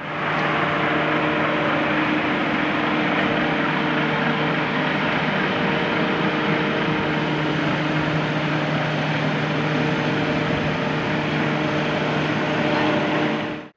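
A machine running at a steady speed: a loud, even drone with a constant hum, starting and stopping abruptly.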